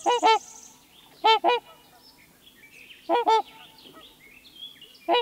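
Swan calling: two short honks at a time, repeated four times at intervals of one to two seconds, with faint chirps from small birds in between.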